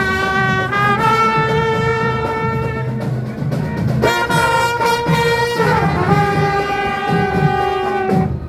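A marching brass band plays long held notes that change pitch every second or two over drums, with a short break about three seconds in.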